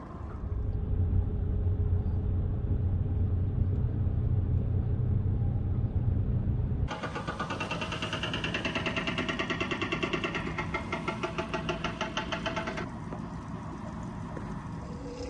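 A boat's engine running: a steady low drone for the first several seconds, then a fast, even pulsing for about six seconds that eases off near the end.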